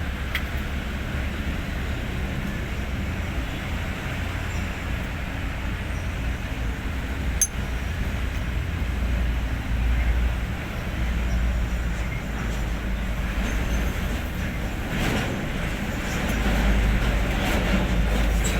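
Hino 500 truck's diesel engine running with a steady low rumble, swelling louder twice, about halfway through and near the end. A single sharp click comes just before the first swell.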